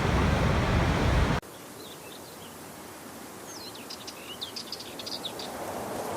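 A loud, steady rush of waterfall water cuts off abruptly about a second and a half in, giving way to a much quieter outdoor hiss. In the quieter part small birds chirp in a quick run of short high calls near the middle, and the hiss slowly grows louder toward the end.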